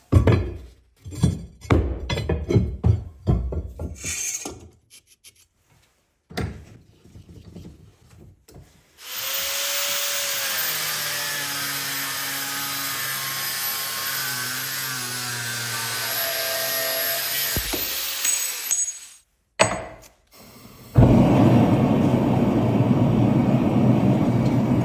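Metalworking on a steel truck leaf spring: sharp knocks and clanks, then a power tool cutting steadily for about nine seconds, its pitch wavering. Near the end a louder steady rushing noise starts.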